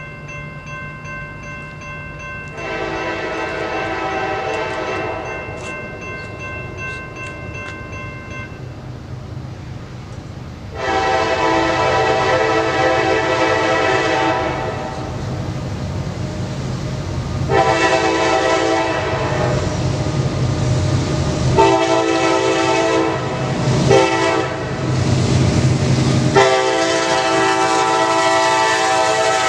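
Diesel locomotive air horn blowing a chord in a series of blasts: a fainter one first, then louder ones in a long, long, short, long pattern, the grade-crossing signal. Under the horn runs the low rumble of the locomotive's engine.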